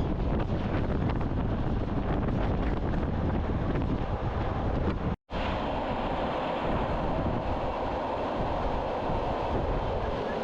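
Train running along the track heard from an open observation carriage, its rolling rumble mixed with wind buffeting the microphone. The sound cuts out completely for an instant about five seconds in, then comes back with a stronger, steadier hiss of running noise.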